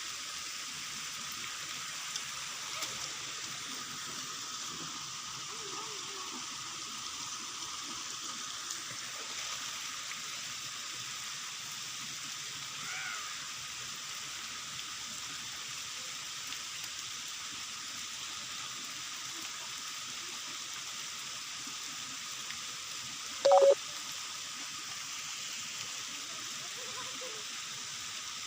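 Steady rain and running water making an even hiss. A short, loud pitched call cuts in once, about three quarters of the way through.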